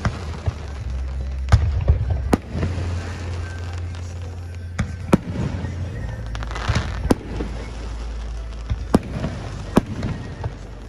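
Aerial fireworks bursting overhead: about ten sharp bangs at uneven spacing, with a burst of crackle about two-thirds of the way through, over a steady low rumble.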